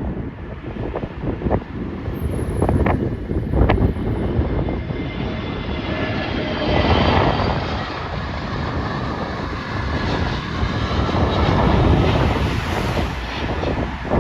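Jet airliner's engines on approach to land, building about a third of the way in to a steady rush with a faint whine, mixed with gusty wind buffeting the microphone.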